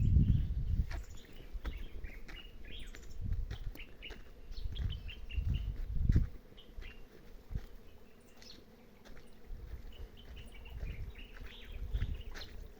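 Small birds chirping and twittering in quick, short notes, with a few low rumbles mixed in, the loudest at the very start.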